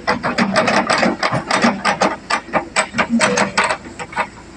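Rapid, uneven metallic clanking, about five clanks a second, from an excavator's steel crawler tracks rolling while it is pushed along. The clanking thins out about four seconds in.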